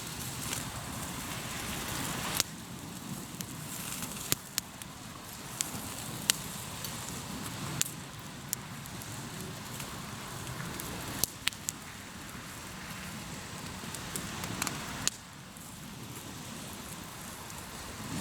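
Hardwood campfire crackling in a fire pit, with sharp pops scattered irregularly over a steady background wash; the wash drops down abruptly twice.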